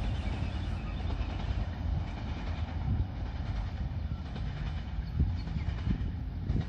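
A train running away into the distance on the rails: a low, steady rumble with some wheel clatter, its higher sounds slowly thinning out.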